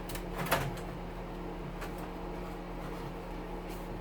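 Steady hum of a kitchen stove's exhaust fan running, with one sharp knock about half a second in and a fainter tick a little later.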